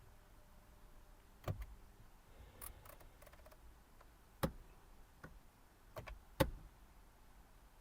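A handful of sharp clicks and light knocks, spread out over several seconds with a faint rattle in between, from the Vauxhall CD stereo head unit being handled and its buttons pressed as it is switched on to test.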